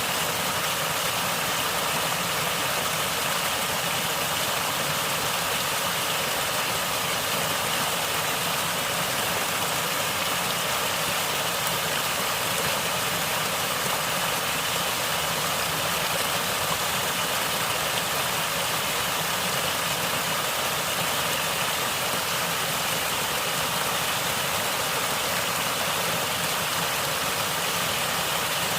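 Natural water gurgling and flowing in a steady, even rush.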